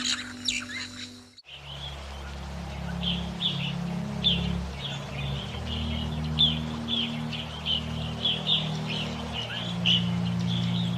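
Birds chirping in quick, repeated short notes, over low sustained background music. The sound cuts to this from a different stretch of bird calls and music about a second and a half in.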